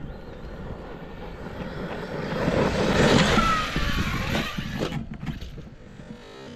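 Arrma Kraton EXB V2 RC monster truck driving past at speed, its brushless motor whining over tyre and chassis noise. The sound swells to its loudest about three seconds in, the whine drops in pitch as it goes by, and there is a sharp click about five seconds in.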